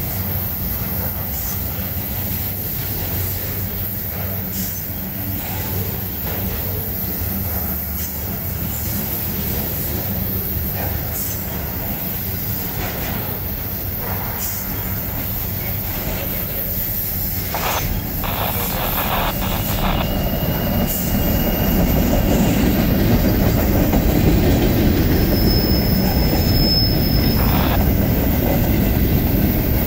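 Freight cars of a CSX manifest train rolling past: a continuous rumble of steel wheels on rail with scattered clicks and brief high-pitched wheel squeals past the middle. The rumble grows louder over the last third.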